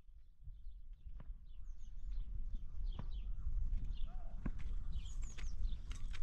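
Small birds chirping in many short, quick calls that fall in pitch, with a few sharp clicks and a low steady rumble underneath.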